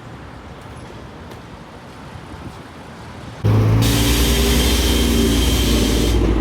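Steady outdoor background noise, cut off about halfway in by a loud train running close by: a deep hum with a steady high whine over it.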